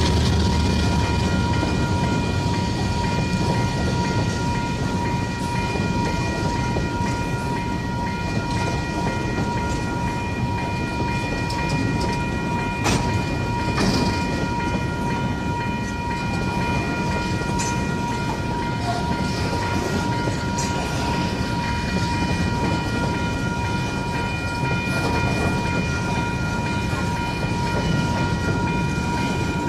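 A train rolling through a level crossing, its wagons rumbling steadily over the rails, with steady high ringing tones running over the rumble throughout.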